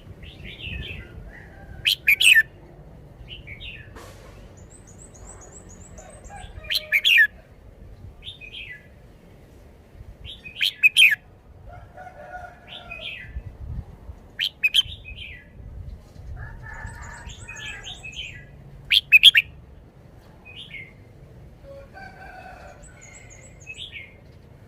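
Caged red-whiskered bulbul singing: five loud, short phrases come about every four seconds, with softer chirps between. A few faint high trills sound in the background.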